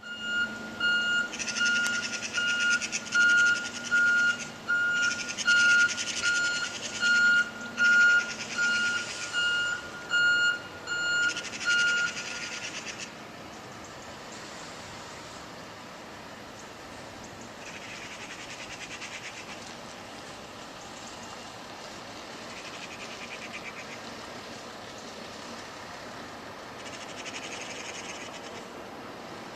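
Refuse truck reversing alarm sounding a repeated, evenly spaced high beep, with the truck's engine running and loud bursts of hissing; the beeping stops about twelve seconds in. After that the engine keeps running more quietly, with three more short bursts of hissing.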